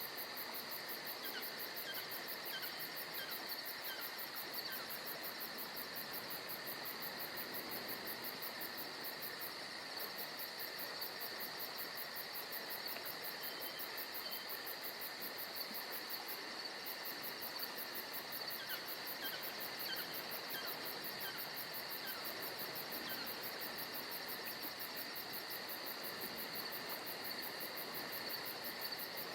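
Steady chorus of insects shrilling in several high tones, one with a fast even pulsing, with a few short falling chirps a couple of seconds in and again past the middle.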